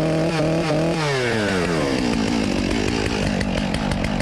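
A brand-new two-stroke chainsaw running. It holds steady revs, then the pitch falls about a second in as the throttle comes off, and it settles into a choppy low idle.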